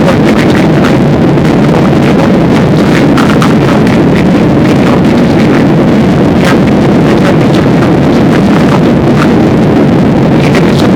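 Passenger airliner cabin noise in flight: a loud, steady rush of engine and airflow, with scattered light clicks.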